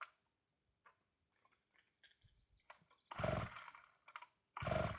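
Light handling clicks, then a two-stroke chainsaw pull-started twice, about a second and a half apart: each pull cranks the engine for under a second and it does not keep running.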